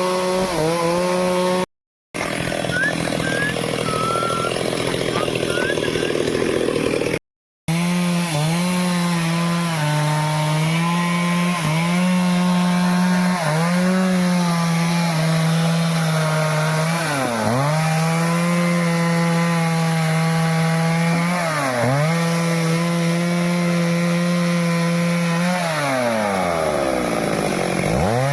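Stihl chainsaw running at high speed, cutting through teak wood. Its engine note sags sharply and recovers three times as the chain loads up in the cut, the last dip lasting about two seconds near the end. The sound cuts out completely twice for a moment in the first eight seconds.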